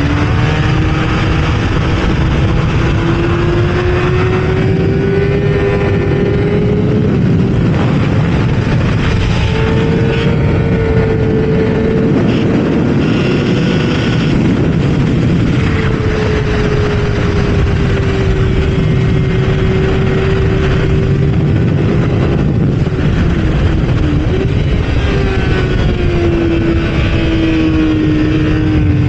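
Kawasaki ZX6R inline-four engine running hard at high revs, its pitch rising and falling as it pulls through the gears and backs off for corners, over heavy wind rush on the microphone.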